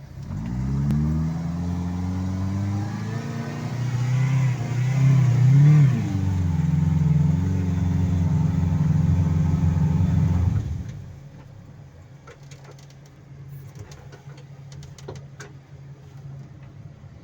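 Toyota 1NZ-FE 1.5-litre four-cylinder engine of an all-terrain vehicle revving up and pulling hard under load for about ten seconds, then dropping back to a low idle.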